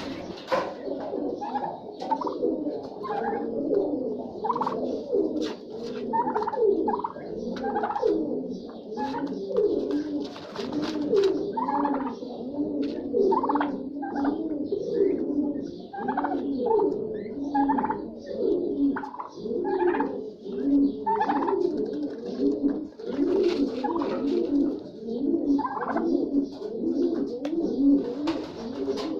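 A flock of birds calling together without a break: many overlapping low, cooing calls, with short higher notes breaking in every second or so.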